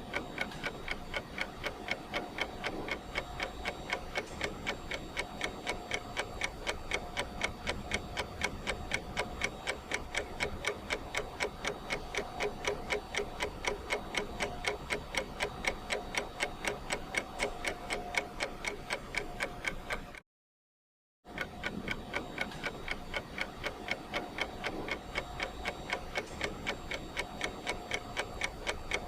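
Ticking clock sound effect: a steady, even run of ticks. It cuts out completely for about a second two-thirds of the way through, then resumes.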